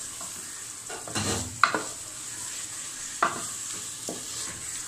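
Chicken frying in oil and masala in a pressure-cooker pot, sizzling steadily while a spatula stirs and scrapes against the pot's metal, with a few sharper scrapes. This is the bhuna stage, the chicken being browned in the masala.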